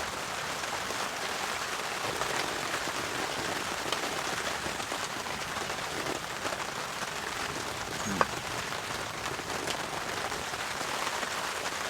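Steady rain falling on a heavy-duty tarp shelter, with one short sharp click about eight seconds in.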